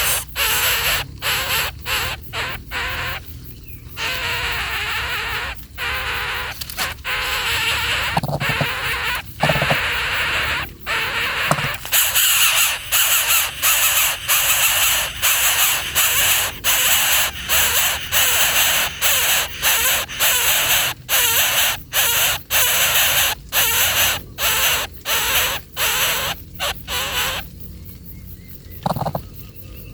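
Baby birds giving harsh, hissing calls over and over, broken by short gaps, that stop shortly before the end.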